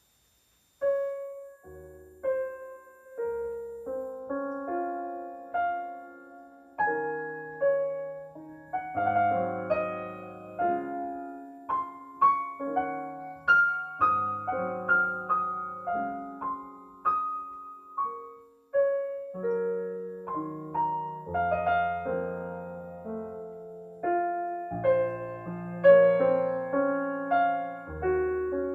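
Piano playing an instrumental introduction of single notes and chords, each note struck and then fading. It starts about a second in.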